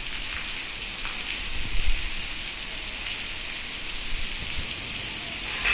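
Heavy rain falling, a steady hiss, with a few low bumps about two seconds in.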